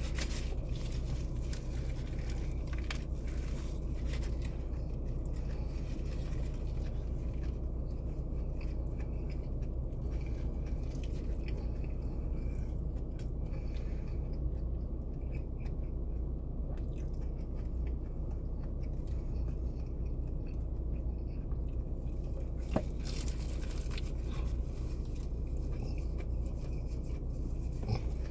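Steady low hum of a car cabin, with faint chewing and small clicks and rustles of food being eaten, and one sharper click a few seconds before the end.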